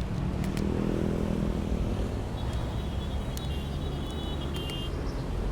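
Road traffic and wind rumble on the microphone of a moving bicycle. A vehicle engine hums in the first two seconds, and a thin high squeal sounds from about two and a half seconds until near the end, with scattered clicks.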